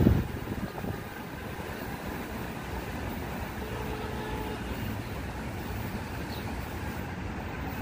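Metro-North electric commuter train rolling away down the track. A loud clack of wheels comes at the very start, then the train's sound drops to a steady low rumble.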